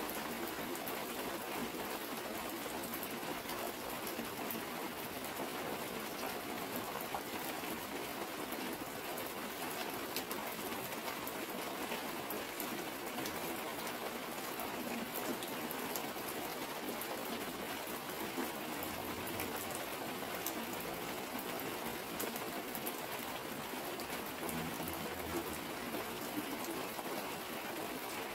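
Heavy rain falling steadily, with many separate drops ticking on a clear plastic sheet as water streams down it.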